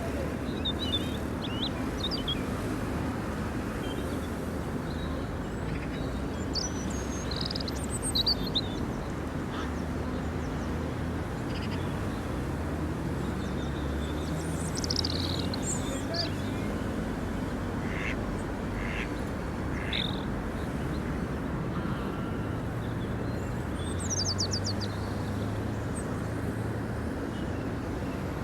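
Outdoor ambience: a steady low rumble with scattered short, high bird chirps and calls.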